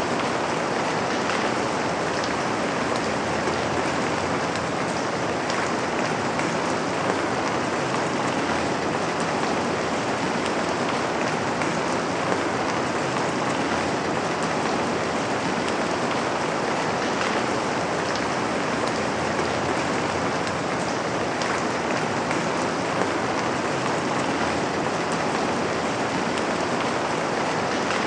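Steady rain falling, an even hiss with a few louder drop taps scattered through it.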